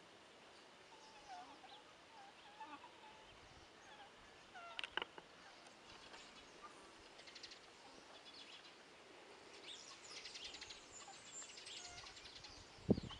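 Faint bird chirps and calls outdoors, with a sharp click about five seconds in and a short thump near the end.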